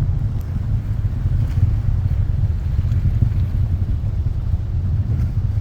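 Atlas rocket engine heard from miles away: a low, steady rumble.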